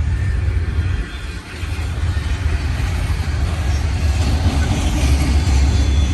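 Long freight train passing close by, a steady deep rumble that builds toward the end.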